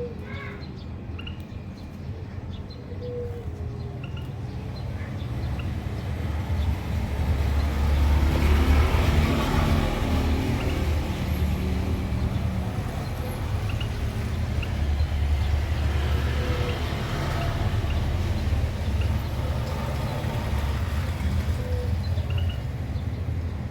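Low engine rumble of a motor vehicle running close by, swelling about a quarter of the way in and staying loud, with a few faint bird chirps over it.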